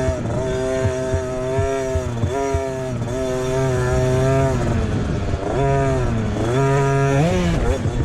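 Motocross bike engines revving hard, the pitch climbing and dropping several times as the throttle is opened and shut.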